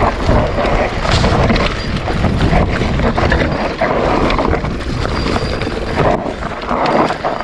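Wind buffeting the microphone of a rider-mounted camera while a mountain bike rolls over rough trail, with frequent knocks and rattles from the bike.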